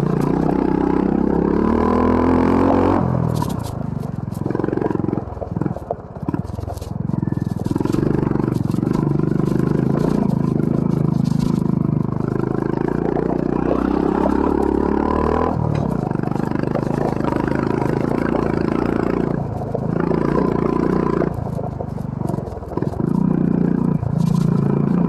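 Honda CB350 RS's air-cooled single-cylinder engine pulling on a rough trail. The revs climb over the first few seconds, the throttle eases off and comes back on between about four and seven seconds in, and it dips again briefly twice near the end.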